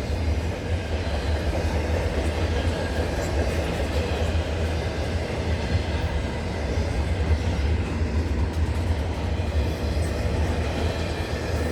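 Intermodal container train rolling past: the steady, deep running noise of the cars' steel wheels on the rails.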